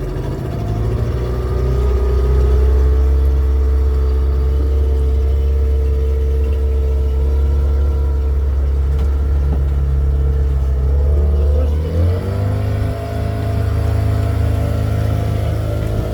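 Motorboat engine running steadily, then rising in pitch about three quarters of the way through as it speeds up, and holding the higher note.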